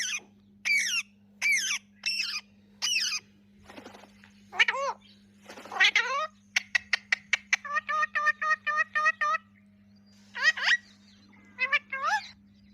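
Ringneck parakeets calling: a string of short, sharp squawks that sweep up and down in pitch, then a fast chatter of evenly repeated notes, about eight a second, in the middle, and more squawks near the end. A steady low hum lies underneath.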